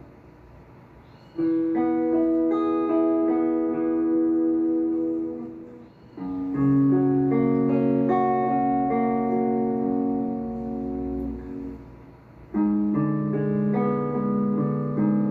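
Three-note chords from the B melodic minor scale played on a musical instrument, three times: each chord's notes start one after another, about a second and a half, six and a half and twelve and a half seconds in, and ring on together for several seconds.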